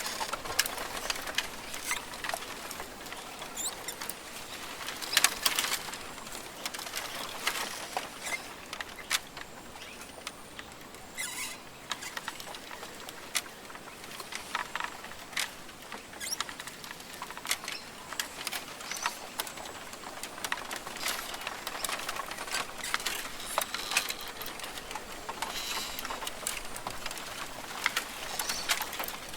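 Rainforest ambience: a steady hiss dense with irregular small clicks and patters, with a brief faint high whistle about ten seconds in.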